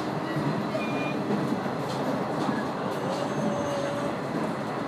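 Running noise of a KiHa 100 diesel railcar heard from inside the car: a steady rumble of engine and wheels on the rails, with a faint high tone about three seconds in.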